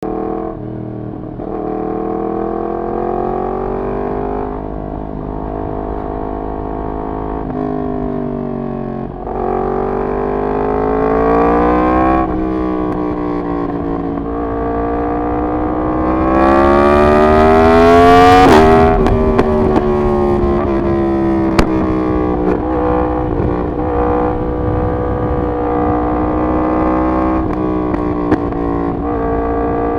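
Yamaha MT-10's crossplane inline-four running loud through a decat full exhaust system while riding. The engine pitch climbs under throttle and drops sharply at each gear change, several times. The hardest pull comes a little past halfway and rises to the highest pitch before falling away to steadier cruising.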